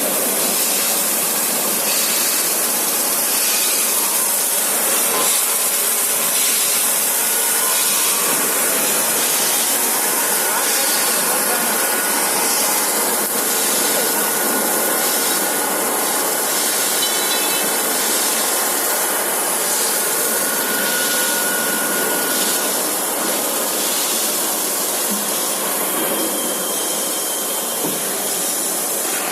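Steel-beam CNC drilling line running: steady machine-shop noise dominated by a hiss, with a faint steady whine through the middle stretch.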